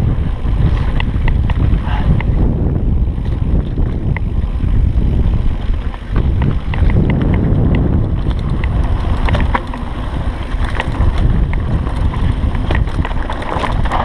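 Wind buffeting the microphone of a mountain bike camera while riding a dirt singletrack, with tyre noise and scattered rattling clicks from the bike over the trail.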